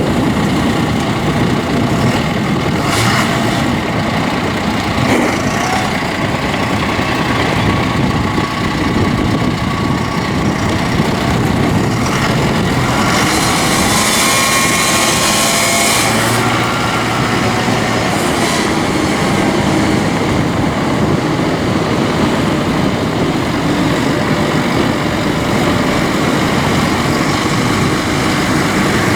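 John Deere 6105E tractor's four-cylinder turbo diesel engine running steadily. About 13 seconds in, a hiss rises over it for roughly three seconds.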